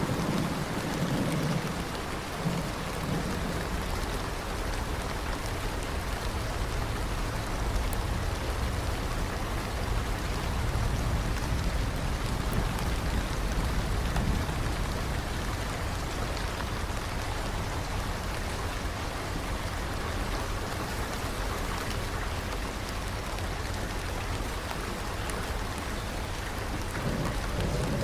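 Steady rain falling, with a low rumble of thunder dying away in the first second or two and another rolling in near the end.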